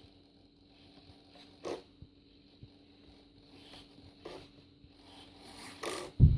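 RC model servos whirring in short zip-like bursts as they drive the glider's control surfaces, with a loud low thump near the end.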